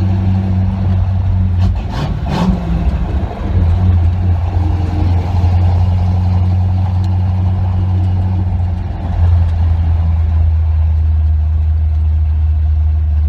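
Exhaust of a 1967 Chevy C20 pickup through MagnaFlow Rumbler mufflers, heard from the truck bed while driving: a steady deep drone that falls off and picks back up about two to three seconds in and shifts again near nine seconds, with two brief knocks about two seconds in and wind on the microphone.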